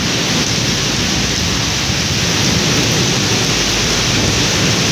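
Heavy rain pouring steadily in a thunderstorm, with a constant low rumble underneath.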